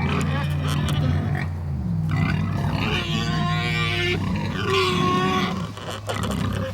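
Large fattened hogs grunting and squealing, with a longer squeal about three seconds in and another near five seconds. A steady low hum runs underneath.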